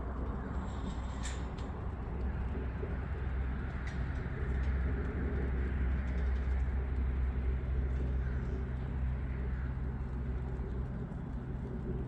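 A low, steady engine hum, with a dove cooing softly over it.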